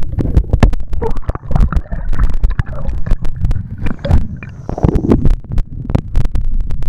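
Underwater sound picked up by a camera in its housing: a loud, muffled low rumble of water movement, broken by many sharp clicks and knocks. A hissing wash rises and falls between about one and five seconds in.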